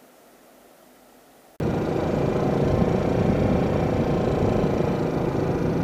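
A faint hiss, then about a second and a half in a sudden cut to motorcycle riding noise: a small four-stroke engine running under a steady rush of wind on the microphone.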